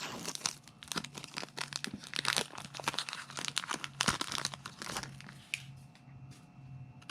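Foil booster-pack wrapper being torn open and crinkled, a dense crackling that dies down about five seconds in.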